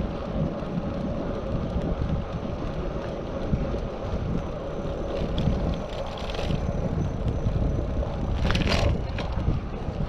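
Wind buffeting a GoPro action camera's microphone while riding a bicycle, a steady low rumble with a faint constant hum through it. A short hiss stands out about eight and a half seconds in.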